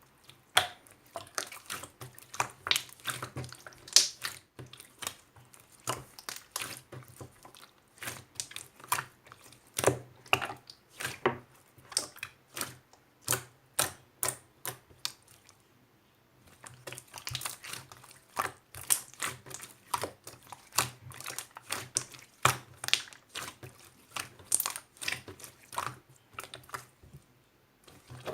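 Rapid, irregular clicking and tapping, several sharp clicks a second, with a pause of about a second midway through.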